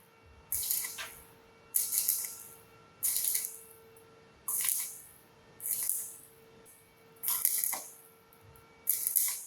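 Stick-welding arc on thin galvanized steel tube, struck and broken again and again: seven short bursts of crackling hiss, each starting sharply and dying away, about one every second and a half. The arc is kept short and interrupted to limit heat and avoid burning through the thin metal.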